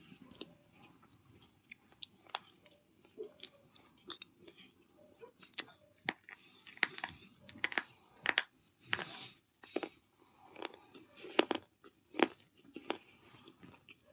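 Close-up biting and chewing of hard baked clay: irregular sharp crunches and cracks, growing louder and denser about halfway through, between quieter chewing.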